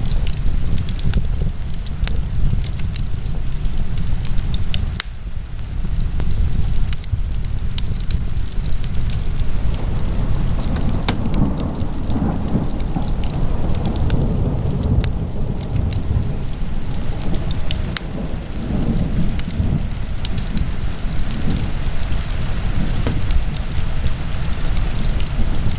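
Wood fire burning in a fireplace: dense crackling and popping over a steady low rumble of the flames, which swells for several seconds in the middle.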